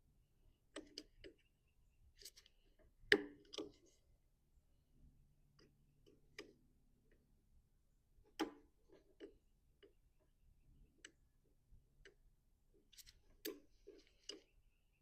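Scattered light clicks and taps of tools and small metal parts being handled on a lawn mower, with a sharper knock about three seconds in.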